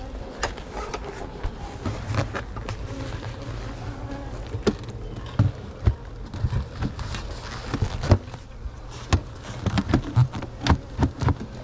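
Wooden beehive lid and boxes being set down and shifted into place: a run of irregular knocks and thumps. Honey bees buzz around the open hive throughout.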